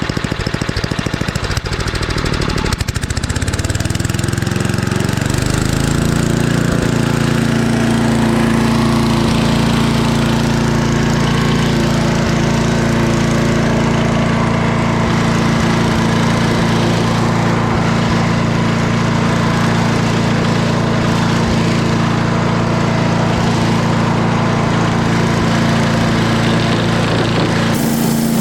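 Craftsman 8.5 hp wood chipper-shredder's small single-cylinder engine revving up from warm idle over a few seconds, then running steadily at high speed.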